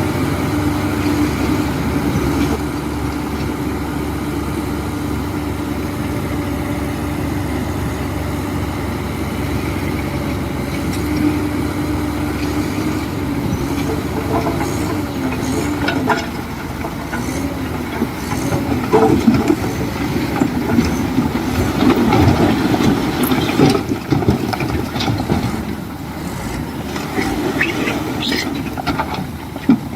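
Diesel engine of a heavy earthmoving machine running steadily, then working harder and rougher from about the middle on, with scattered knocks and clanks.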